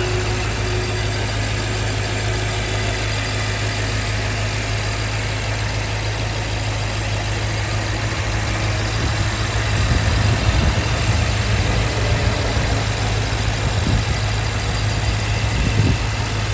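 M6 engine idling steadily with a constant low hum. From about ten seconds in it runs a little louder and more unevenly.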